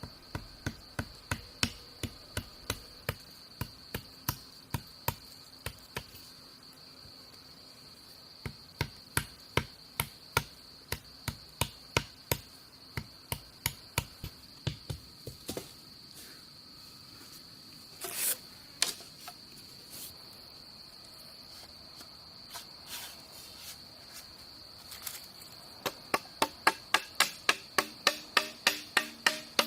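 Runs of sharp, rhythmic tool strikes, about two or three a second, broken by a long pause in the middle, with one louder rustling burst partway through. Under them runs the steady high drone of crickets or other insects.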